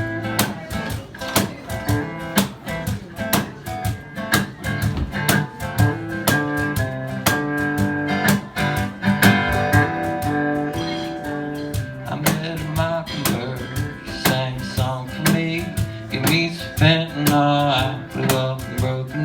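Acoustic guitar playing the instrumental opening of a country song, strummed in a steady rhythm over a bass line, with a few bent melody notes.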